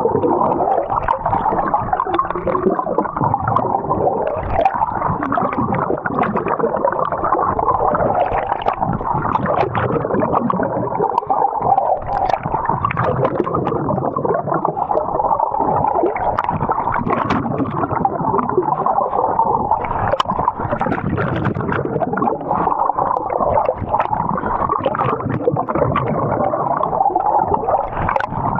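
Continuous, muffled gurgling and churning of water.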